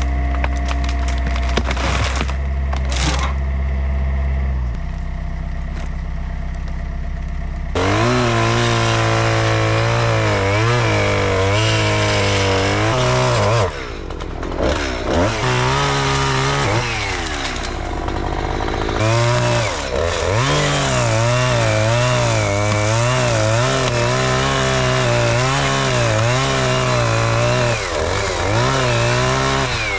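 Steady low engine hum, then about eight seconds in a chainsaw starts cutting into hickory wood. Its pitch rises and falls again and again as it cuts, with a couple of short letups.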